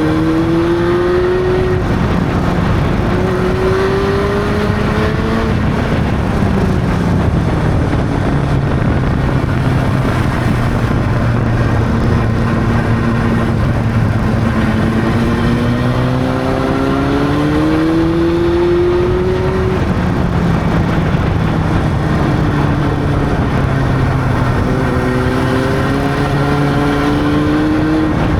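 Honda CB600's inline-four engine pulling under way, its pitch climbing as it accelerates and dropping back at gear changes several times, with steadier cruising stretches between. Wind and road noise run underneath.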